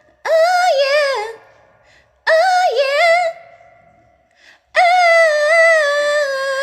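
Unaccompanied female voice singing K-pop high notes: two short phrases, then a long held high note from about two-thirds of the way in.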